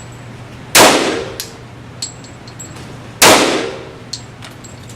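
Two gunshots about two and a half seconds apart, each sharp report followed by a long reverberating tail in an indoor shooting range, with a few small metallic clicks between them.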